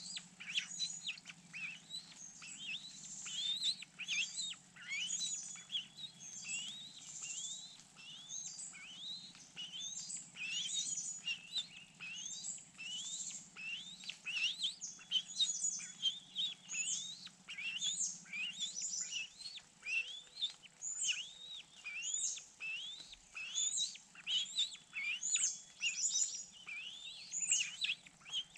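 Bird calls: a continuous series of short, high, upward-sweeping chirps, about two a second.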